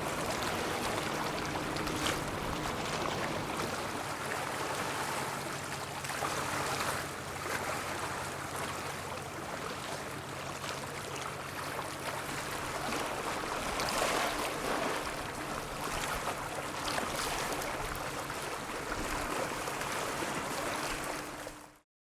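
Steady rushing water and wind noise with the low, even hum of a ship's engines underneath, swelling a little now and then. The sound cuts off abruptly at the very end.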